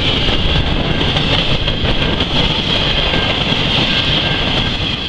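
Freight train of empty centerbeam flatcars rolling past: a steady rumble and clatter of steel wheels on the rails, with many light clicks and a steady high-pitched tone over it.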